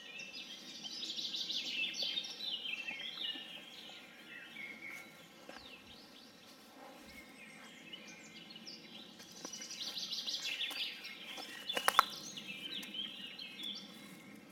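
Birds singing in two bouts of quick chirping phrases over a steady outdoor background, with a single sharp click near the end.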